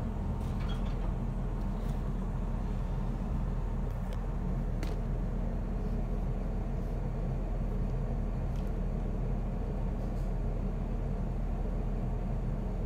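Steady low rumble of a moving train heard from inside the carriage, with a few faint clicks scattered through it.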